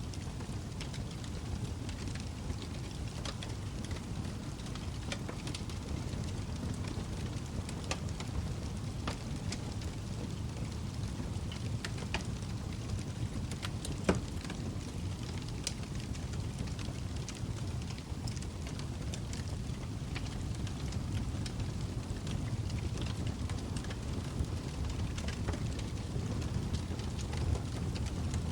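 Log fire burning in a fireplace: a steady low rumble of flames with frequent sharp crackles and pops, one louder pop about halfway through.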